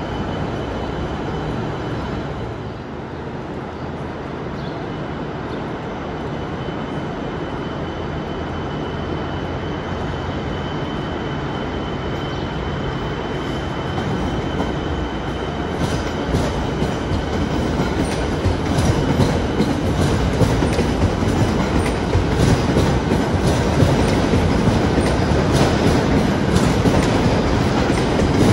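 Siemens Nexas electric suburban train rolling past, a steady rumble with a thin high whine over the first half. From about halfway its wheels click rapidly over the rail joints and points, and the train grows louder as it comes alongside.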